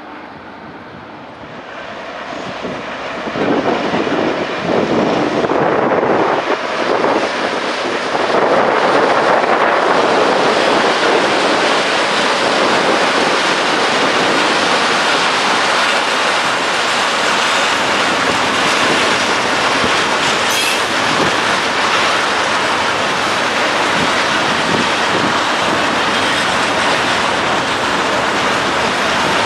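Diesel-hauled freight train passing close by. The sound builds over the first few seconds as the locomotive comes past, then settles into a long, steady rumble and clatter of tank wagons rolling over the rails.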